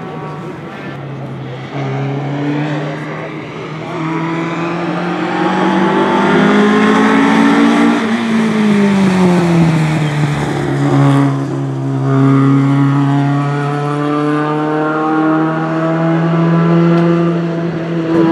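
Rally car engine running hard on a stage. The note climbs over the first eight seconds, drops at about eight seconds, then holds fairly steady and loud.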